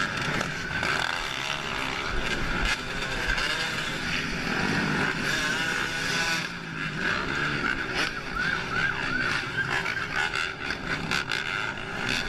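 A pack of dirt bikes and other small off-road engines revving up and down over and over, several at once, over steady traffic noise.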